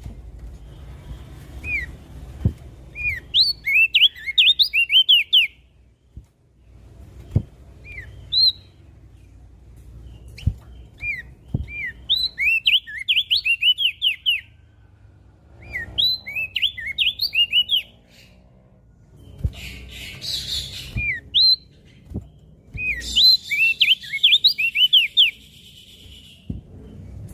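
Crested dark-eye (opior jambul) singing in repeated phrases of quick, high, sweeping chirps, each phrase lasting one to three seconds with short pauses between.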